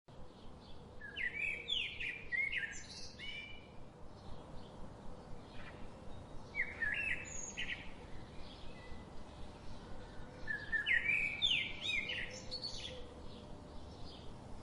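Birds singing: a loud phrase of quick, sliding whistled notes comes three times, with fainter chirps in between.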